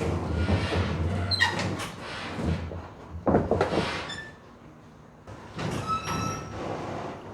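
Metal gear being handled and shifted on a truck bed: several scrapes and knocks, the loudest about three seconds in, and a short squeak about six seconds in.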